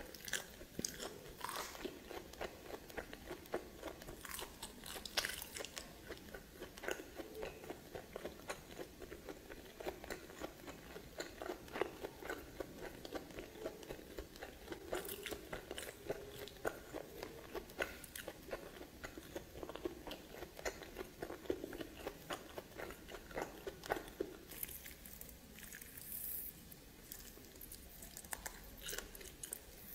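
A person biting and chewing steamed snake meat: a dense run of small, quick mouth clicks that eases off for a few seconds near the end.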